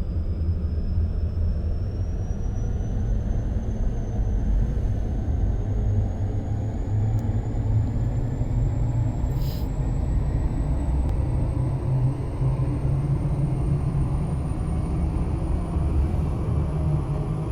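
Ashok Leyland truck's diesel engine running under way, a steady low rumble with a faint high whine that slowly climbs in pitch.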